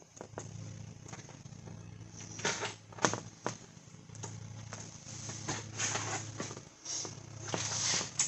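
Handling noise from the Vevor LED sign's internals being slid back into their housing: irregular scrapes and knocks. The loudest come about three seconds in and a longer scrape near the end, all over a steady low hum.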